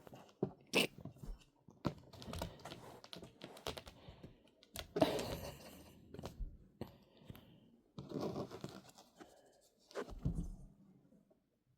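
A Maine Coon kitten playing: its claws scratching and scrabbling, with irregular taps and rustles, the loudest scuffles about five and eight seconds in.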